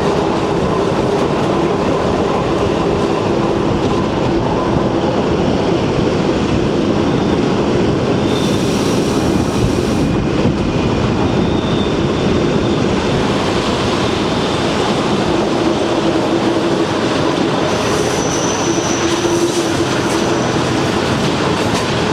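Train running steadily along the track with continuous rail and wheel noise, and brief high-pitched squeals at about nine seconds in and again near the end.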